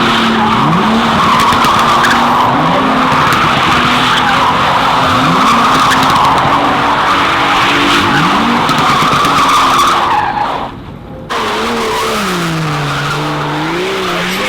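Car's tyres squealing continuously as it spins its wheels, with the engine held at high revs and its pitch sweeping up several times. The sound drops briefly about ten seconds in, after which the squeal continues with the engine pitch wavering up and down.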